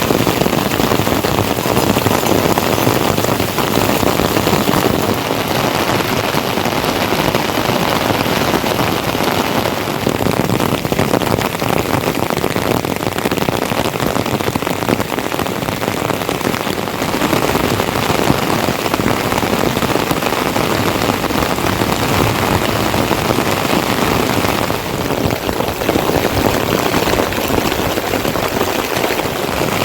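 Heavy monsoon rain falling steadily, a dense even hiss.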